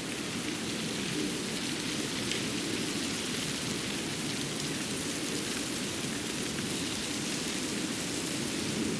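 Steady outdoor forest ambience: an even rushing hiss with a faint patter in it, and no single event standing out.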